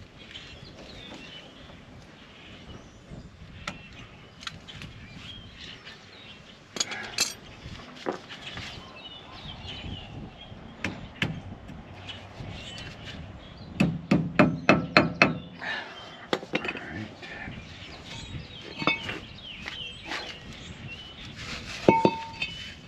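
Hand tools clinking and knocking on metal during front-suspension work on a Ford F-150, with scattered single knocks and a quick run of about eight hard strikes in the middle.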